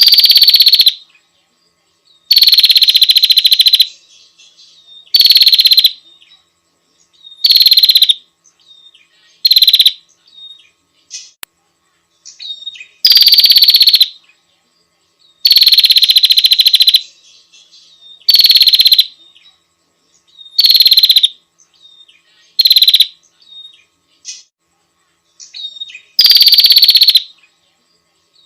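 Female prinia (prenjak) calling to attract a male. A loud call about a second long repeats every two to three seconds, with faint short chirps in the gaps.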